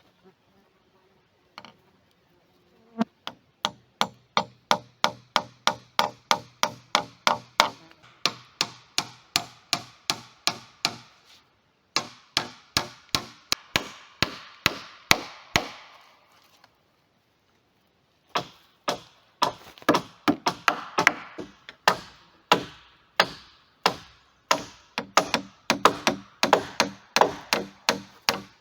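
A hammer striking wood in quick, steady runs of about two to three blows a second, each blow ringing briefly, as when nails are driven into timber. The hammering starts about three seconds in and pauses briefly twice.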